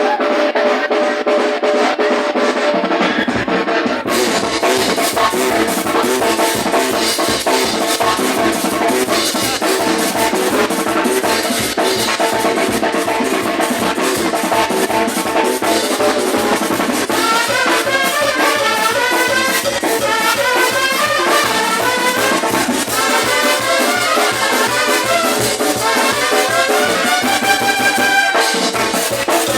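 Brass band music with trumpets and trombones over drums; the drum beat comes in about three seconds in, and quick runs of higher notes are added later.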